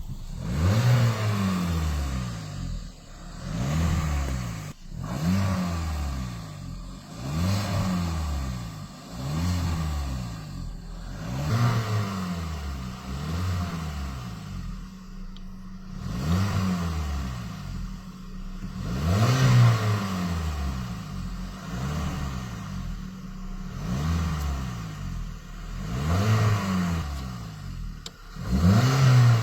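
Car engine revved over and over by pumping the gas pedal, each rev rising and falling again, about one every one and a half seconds, heard at the exhaust pipe.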